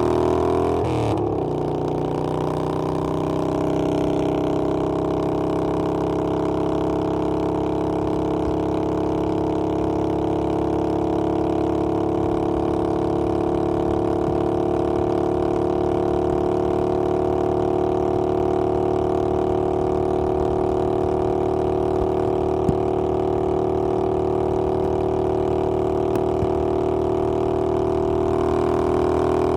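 Harley-Davidson Sportster Iron 883's air-cooled V-twin engine running on the move. Its pitch climbs, drops sharply about a second in, then holds a steady cruising note and rises a little near the end.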